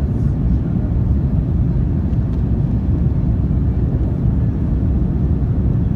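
Steady low rumble inside the cabin of an Airbus A310-304 on approach: airflow and engine noise with the landing gear down and flaps extended.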